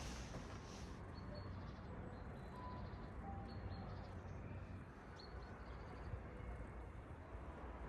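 Faint short high chirps, a few seconds apart, over a low steady rumble.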